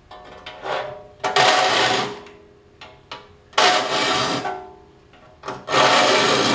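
A file being pushed across the teeth of a Disston D8 rip saw in about three long strokes, each around a second, with the steel saw plate ringing under each stroke.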